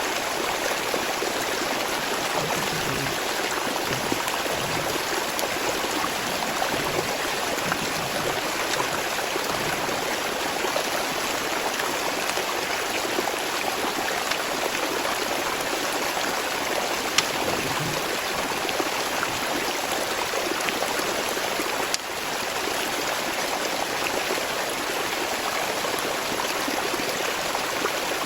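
Steady rushing of flowing water, like a forest stream, with a single faint click about seventeen seconds in.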